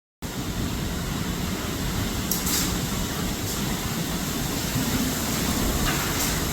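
Storm wind rushing steadily and buffeting the microphone, with a heavy low rumble; it starts suddenly just after the start and cuts off suddenly near the end.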